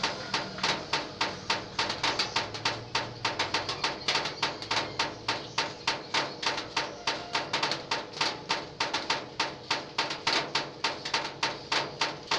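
Rainwater dripping onto a corrugated zinc roof sheet: a fast, even run of sharp metallic ticks, about five a second, in a steady rhythm.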